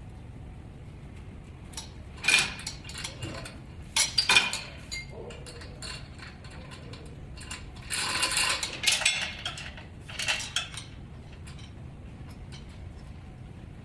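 Metal tools and parts clinking and clattering in four short bursts, over a steady low hum.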